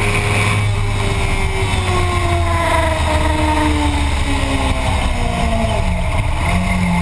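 Motorcycle engine heard from on board the bike, its revs falling steadily for several seconds as the bike slows, then holding low and steady near the end, with heavy wind rumble on the microphone.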